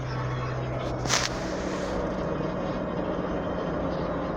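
Cabin noise of a 1985 Dodge Aries on the move: a steady engine hum and road rumble. About a second in there is a short sharp noise, and the low hum steps up to a higher note.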